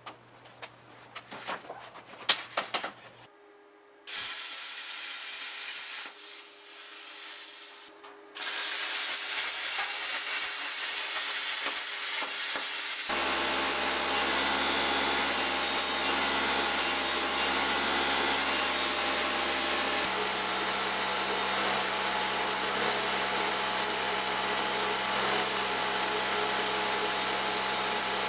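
Electric power tool abrading steel, a grinder or sander, running steadily after a few seconds of light handling clicks; it stops briefly near eight seconds, then runs on continuously, with a deeper motor hum joining at about thirteen seconds.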